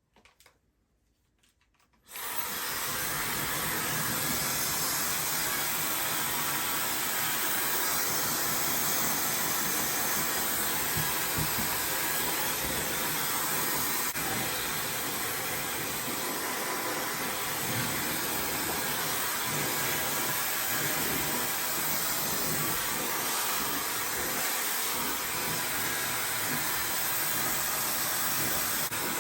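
Ionic hair dryer switched on about two seconds in, then running steadily with an even hiss of blown air as it dries hair.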